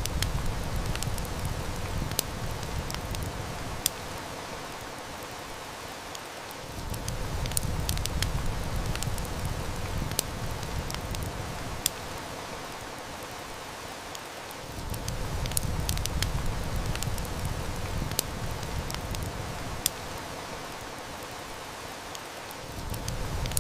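Steady heavy rain with sharp wood-fire crackles and snaps scattered through it, over a low rumble that swells and fades about every eight seconds.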